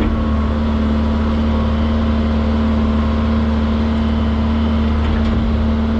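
Excavator's diesel engine running steadily under digging work, a constant low drone with a steady hum above it.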